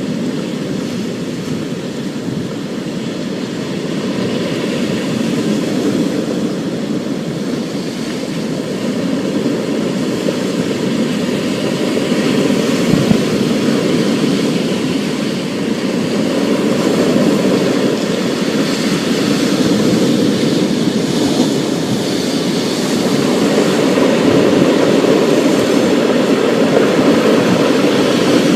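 Thunderstorm ambience: a steady low roar of rain and wind that swells and eases every several seconds, with a few small sharp ticks.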